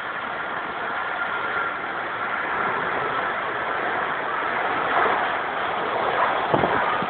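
Jet airliner's engines running with a steady rush and a faint high whine.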